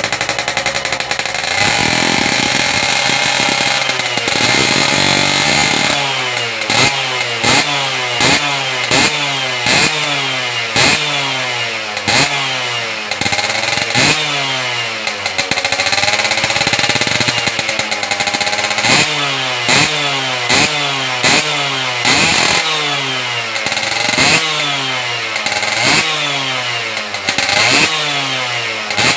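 Yamaha F1ZR two-stroke single-cylinder motorcycle engine with an RTX racing exhaust, revved hard: held at high revs for a few seconds, then blipped over and over, each blip a sharp rise in pitch that falls straight back, about one to two a second. The exhaust has a raspy, chainsaw-like two-stroke crackle.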